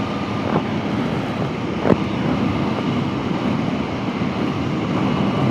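Aprilia Tuono V4 1100 Factory's V4 engine running at a steady cruise while riding, mixed with steady wind rush on the microphone. A brief tick about two seconds in.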